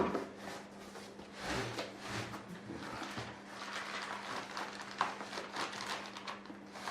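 Cardboard packaging being handled and pulled apart: irregular rustling and scraping, with a sharp knock at the start and another about five seconds in, over a faint steady hum.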